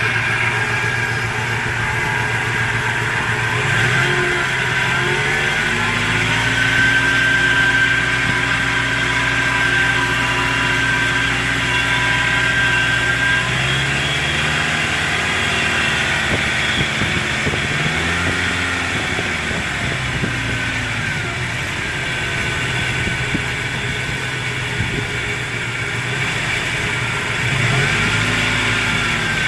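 1999 Toyota Tacoma's 3RZ-FE 2.7-litre four-cylinder engine idling and being revved several times, with a high-pitched whine that rises and falls with engine speed; the source of the whine is unknown to the owner.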